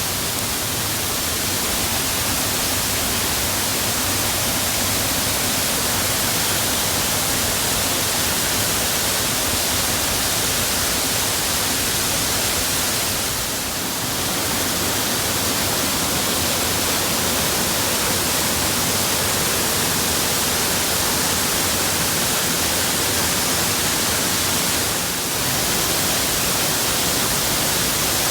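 Waterfall: a steady, loud rush of falling water, dipping briefly about halfway through and again near the end.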